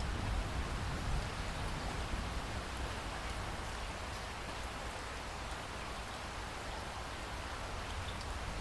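Steady rain falling, an even wash of drops with a low rumble underneath.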